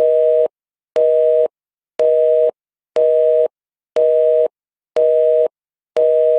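Telephone busy signal: a two-tone beep repeating about once a second, seven times, each beep half a second on and half a second off.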